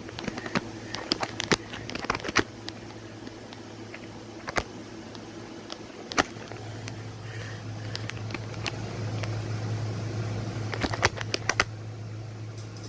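A steady low hum with scattered sharp clicks and crackles; the hum gets louder about six seconds in.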